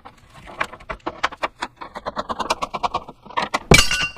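Steel pry bar levering a lower control arm mount out of its seat: a rapid run of metal clicks and scrapes, then, near the end, a loud metallic clank with a short ringing as the stuck mount breaks free.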